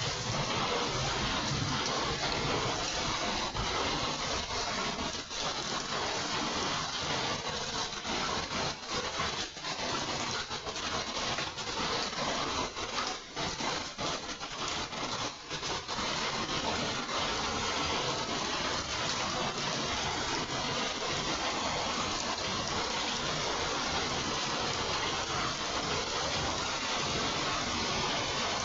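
Rain falling steadily in a warm summer shower: an even, dense hiss.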